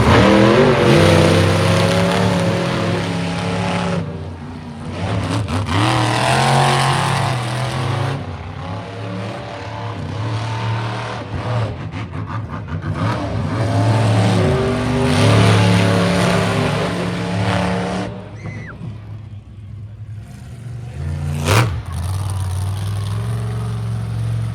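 Monster truck engines revving hard in repeated loud surges, the pitch climbing and falling, with a single sharp bang near the end.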